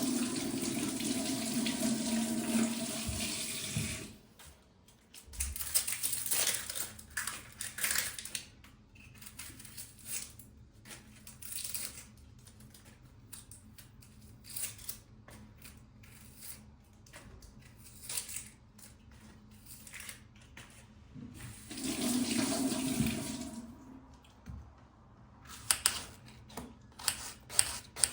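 Water running from a tap into a sink for about four seconds, and again for about three seconds near the end, with scattered short knocks and clinks of handling in between and a quick run of sharp clicks at the close.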